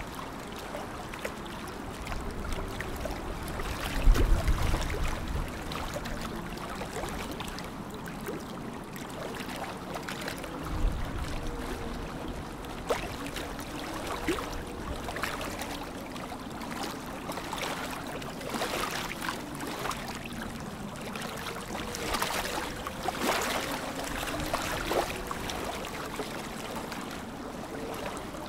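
Lake water lapping and trickling, with soft small splashes throughout. A low rumble comes about four seconds in, and a shorter one about eleven seconds in.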